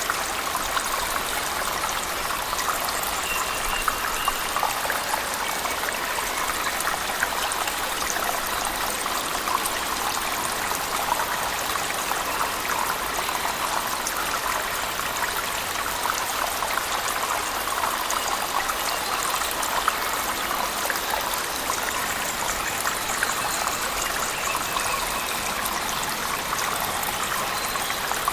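Steady rush of falling water from a waterfall inside a cave, mixed with heavy rain, with many small splashes and drips.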